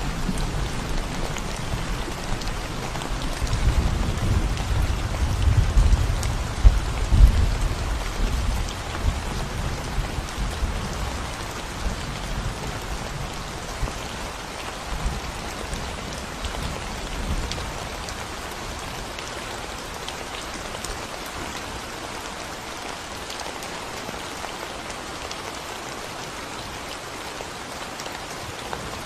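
Steady rain falling on a concrete road, an even patter of drops. A low rumble underlies the first third and dies away by about ten seconds in.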